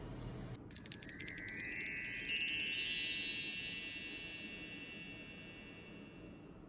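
A run of small metal chimes struck in quick succession, a shimmering cascade of high ringing notes that fades away slowly over several seconds.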